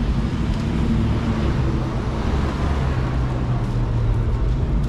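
City street traffic: a steady low engine hum and rumble from motor vehicles on the road.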